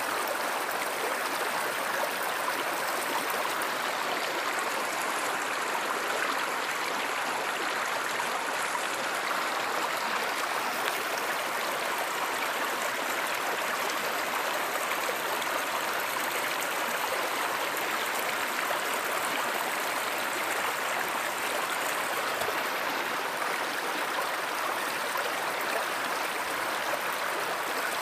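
Stream water flowing and babbling in a steady, unbroken rush.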